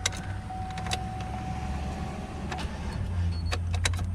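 Chevy Tahoe's starter motor cranking the engine, which does not fire, with a steady high tone alongside and a few sharp clicks. The battery is too weak: the mechanic calls it toasted.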